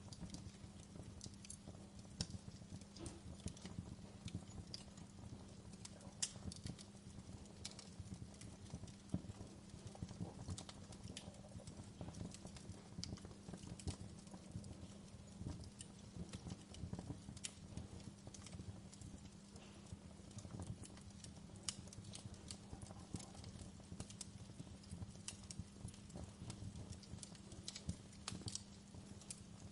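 Wood fire burning in a fireplace: irregular crackles and pops over a low rumble, with a steady low hum underneath.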